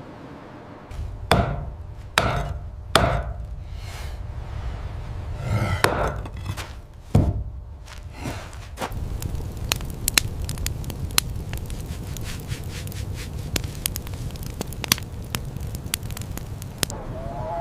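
Wood being struck, like chopping, with several heavy knocks spaced about a second apart. A run of many sharp crackles follows, all over a steady low rumble.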